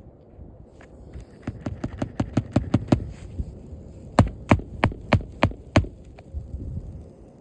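Hammer driving roofing nails into a new asphalt shingle: a quick run of light taps, then six harder strikes about three a second.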